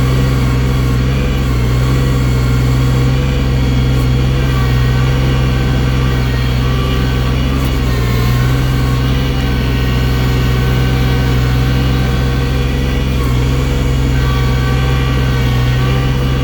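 Engine of a bucket loader running steadily at an even speed, loud and close, while the machine moves deep snow.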